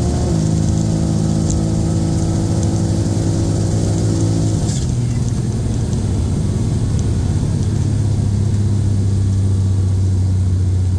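Turbocharged Buick Grand National V6, heard from inside the cabin, running at low speed with a steady engine note. About five seconds in, the note drops lower and turns rougher.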